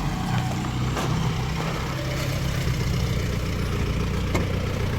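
Mahindra Bolero's diesel engine idling steadily.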